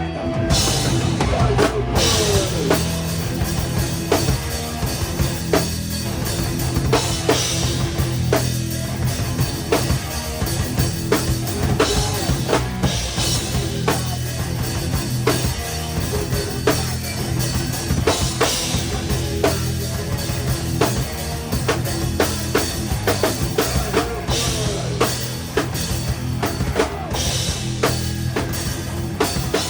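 Live rock band playing, the drum kit loudest, with a steady bass-drum beat and cymbal bursts every few seconds over electric guitar and bass.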